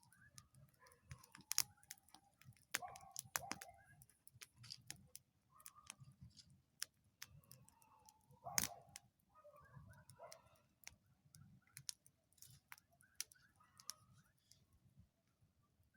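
Bonfire crackling: burning wood gives off irregular sharp pops and snaps, with two louder pops, one about a second and a half in and one about eight and a half seconds in.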